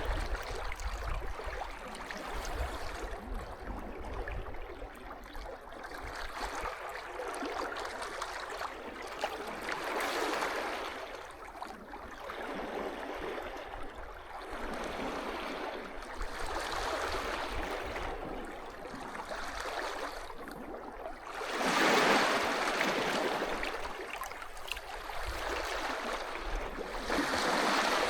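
Small sea waves washing in and out on a beach in a steady rhythm, swelling and falling away every few seconds. The biggest surge comes about three-quarters of the way through.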